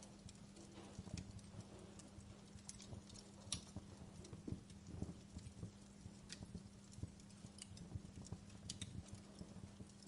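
Wood fire crackling in a fireplace: irregular sharp pops and snaps over a low, soft rumble of burning, with a faint steady low hum underneath.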